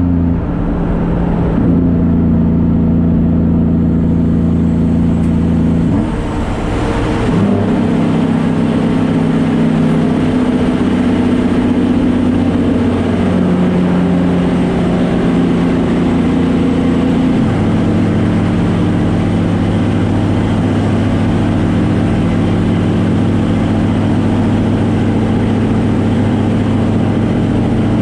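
Semi truck's diesel engine running under way, its note stepping to a new pitch several times. The clearest change is a short drop in level and pitch about six seconds in, as in a gear change.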